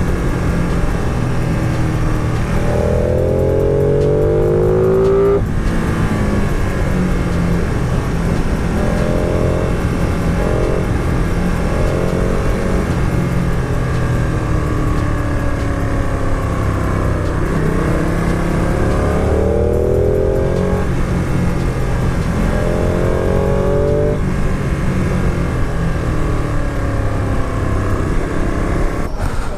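Sports motorcycle engine under way, its revs climbing several times with sharp drops at the gear changes, over a steady rush of wind and road noise.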